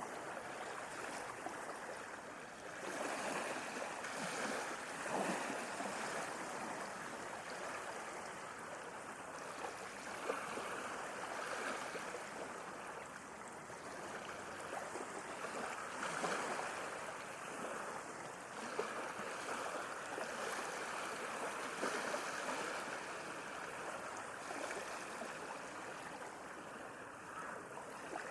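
Sea waves washing ashore: a steady rush of water that swells every few seconds as waves break.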